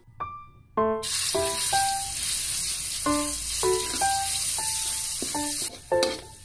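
Food sizzling in a hot wok, starting suddenly about a second in as it is stirred with a spoon, and cutting off shortly before the end. Gentle piano music plays throughout.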